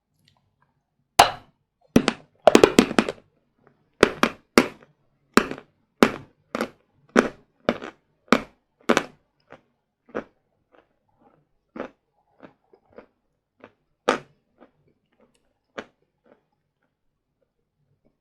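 Hard sawn Vatutin chalk being bitten and chewed: a loud crunching bite about a second in, a quick cluster of crunches, then steady chewing crunches a little under two a second that grow fainter and sparser toward the end.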